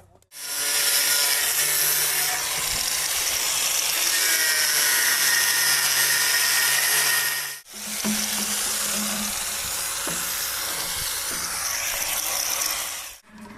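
Steel fabrication work: two long stretches of loud, hissing, crackling metalworking noise, split by a sudden cut about halfway through.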